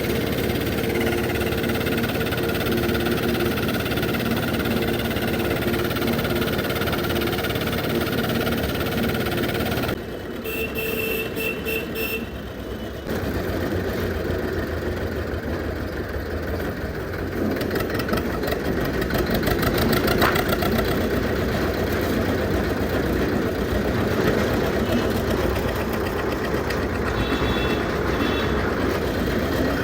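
Old Zetor tractor's diesel engine running, steady and even at first; after a break about ten seconds in it carries on rougher and louder.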